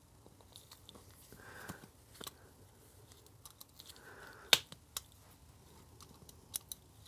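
Quiet hand-handling of a rubber air filter boot being twisted and worked loose from a set sealant repair: soft rubbing with a few small sharp clicks, the loudest about four and a half seconds in.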